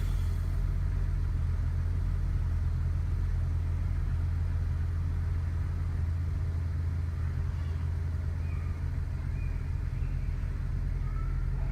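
BMW E60 535i's twin-turbo inline-six idling roughly after a cold start, a steady low engine hum.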